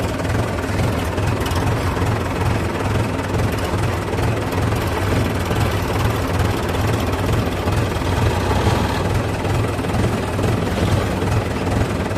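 Heavy diesel engine of farm machinery running steadily under load, a continuous low rumble.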